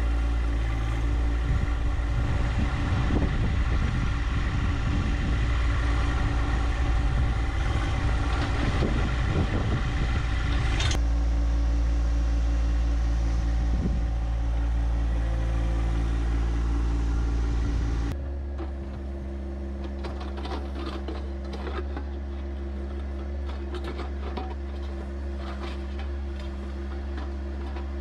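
John Deere 1025R compact tractor's three-cylinder diesel engine running steadily. Its sound changes abruptly twice and drops somewhat in level about two-thirds of the way through, with light clicking over it.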